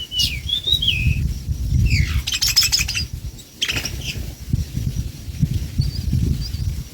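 Small bird chirping: short gliding calls in the first second, then a quick burst of rapid chirps about two to three seconds in and another near four seconds, over a steady low rumble.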